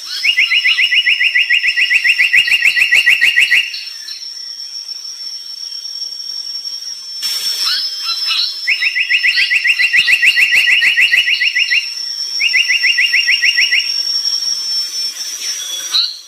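A brown tali pocong bird calling in three fast, even trills of rapidly repeated notes, the first two long, the last shorter near the end. A steady high whine and faint scattered chirps run beneath.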